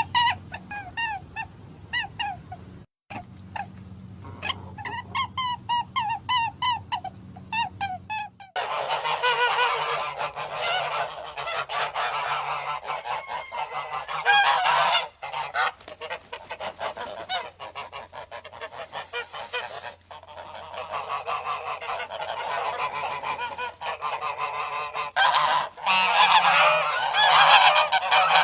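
Geese honking. First one or two birds give repeated short honks, about three a second. From about eight seconds in, a whole flock honks together in a dense, overlapping clamour.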